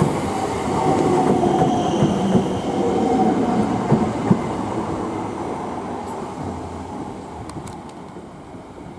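Class 321 electric multiple unit running in and slowing, wheels clattering over rail joints with a faint thin whine, the sound dying away steadily as the train draws to a stop.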